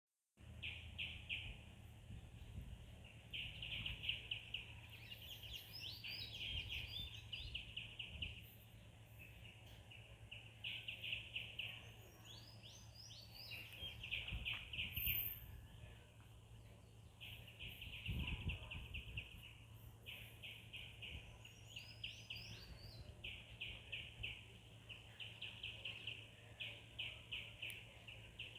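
Birds chirping: a run of rapid trilled chirps repeating throughout, with clusters of sharp falling calls about 5, 12 and 21 seconds in, over a steady low hum.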